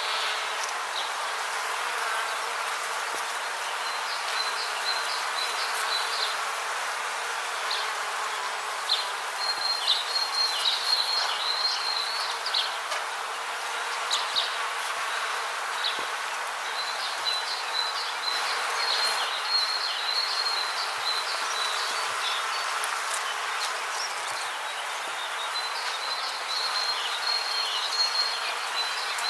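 Rainforest ambience: a steady hiss under four bouts of high, rapidly pulsed insect trills that start and stop every few seconds, with scattered faint ticks.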